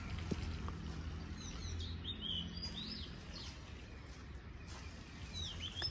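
Birds chirping: short quick calls about two seconds in and again near the end, over a low steady background rumble.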